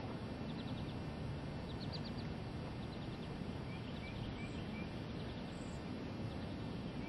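Small birds chirping in runs of short, quick high chirps, over a steady rushing background noise.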